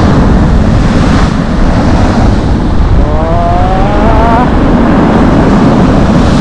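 Strong wind buffeting the microphone over Black Sea storm surf breaking on the shore, a loud steady rumble and wash. Roughly halfway through, a short rising voice-like tone is heard.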